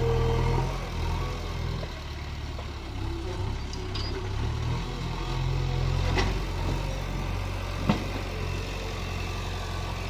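Heavy diesel engine running steadily at low revs, with three sharp knocks spaced about two seconds apart.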